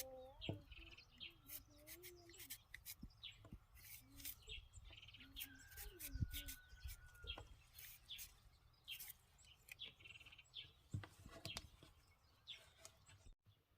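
Faint birds chirping outdoors, with scattered short clicks and faint distant voices underneath.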